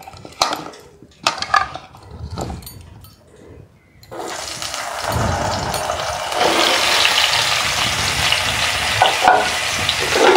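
A few light knocks, then ash gourd pieces coated in turmeric and salt hit hot mustard oil in a kadai and start sizzling suddenly about four seconds in, a steady frying hiss that swells slightly as more pieces go in.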